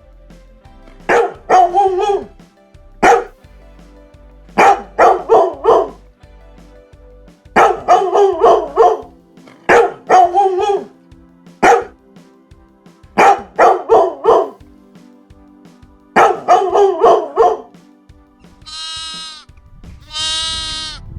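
Dog barking in quick clusters of two to four barks, with a pause of a second or so between clusters. Near the end come two drawn-out bleats.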